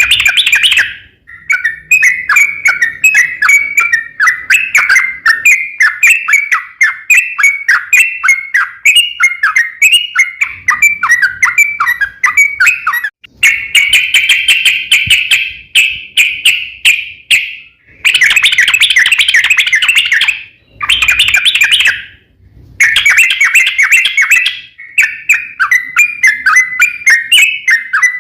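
Yellow-vented bulbul (trucukan) singing long runs of rapid chattering notes. The runs are broken by a few short, abrupt pauses.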